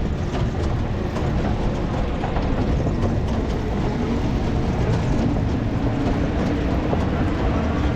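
Sprint car engines running at a dirt track: a steady, dense drone with no let-up.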